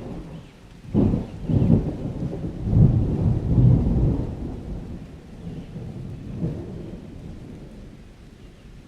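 A deep rolling rumble that swells about a second in, is loudest over the next few seconds, then slowly dies away.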